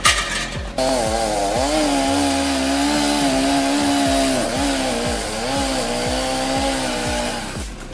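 Chainsaw engine running at high revs, its pitch dipping and recovering several times. It starts about a second in and fades out near the end.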